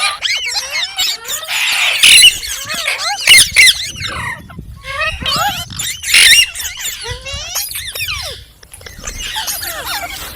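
Green parrot chirping and chattering in quick, rapidly bending calls, with a few louder squawks about two, three and six seconds in.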